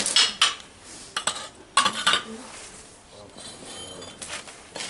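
Hard objects clinking and knocking together in an irregular series of sharp strikes, each with a short high ring.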